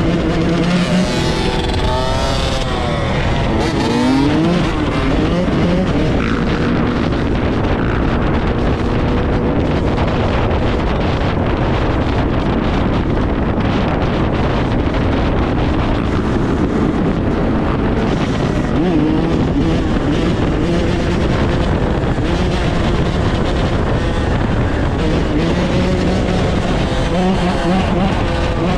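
Several dirt bike engines running together, revved up and down in quick swells near the start and again near the end, with a dense, steady engine noise in between.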